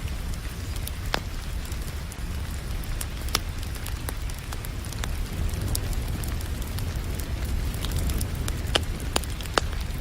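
A fireplace fire crackling, with frequent sharp pops and a few louder ones near the end, over a steady hiss of rain and a low rumble.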